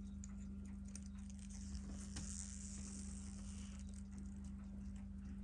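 Faint small clicks and taps of tools handling watch parts during disassembly, over a steady low electrical hum.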